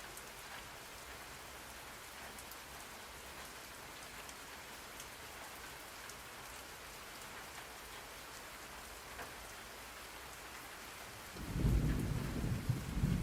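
Steady rain with scattered drop ticks. About eleven and a half seconds in, a loud, low rolling rumble of thunder begins.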